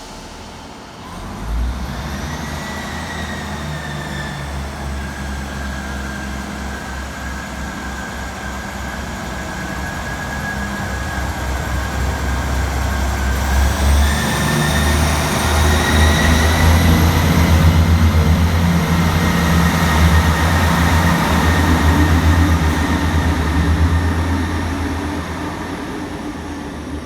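ScotRail Class 158 diesel multiple unit pulling out under power: a low diesel engine throb with a whine that rises in pitch as it accelerates. It grows louder about halfway through and fades near the end.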